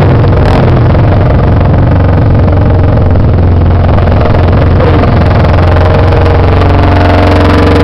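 Off-road trail motorcycle engines running loud and steady.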